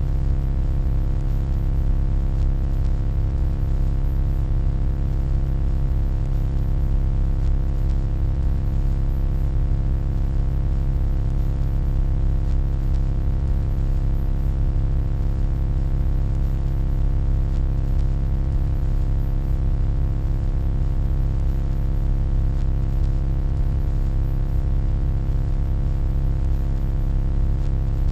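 Steady electronic humming: a deep low drone with a stack of evenly spaced fainter tones above it and a light hiss.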